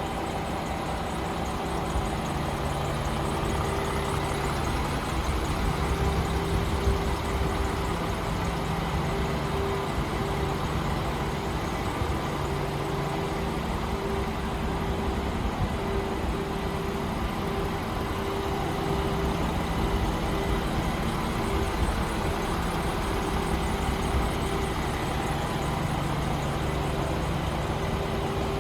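Paccar 530 bhp diesel engine of a DAF XF106 tractor unit idling steadily.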